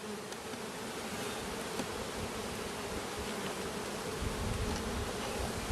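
A honeybee colony buzzing steadily, the hum of many worker bees on the open hive's frames during an inspection.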